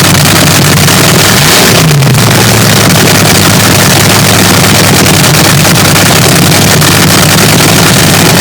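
Swamp Rat III, a nitro-fuelled Top Fuel front-engine dragster, running very loud at a cackling idle, with a brief throttle blip that rises and falls about a second and a half in.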